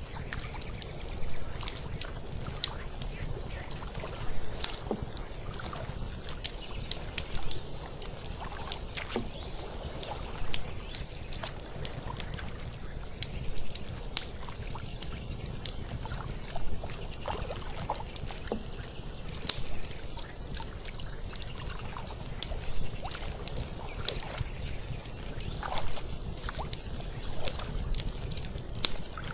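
Layered lakeside ambience: water lapping and trickling, with frequent small pops and crackles of an outdoor wood fire and a steady low rumble underneath.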